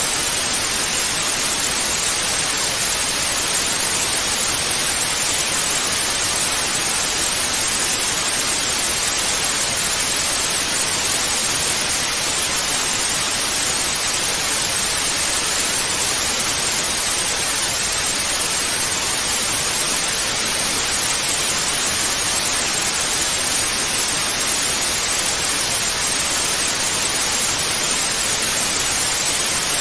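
Television static (snow-screen white noise): a steady, loud hiss, strongest in the upper middle, with no changes or breaks.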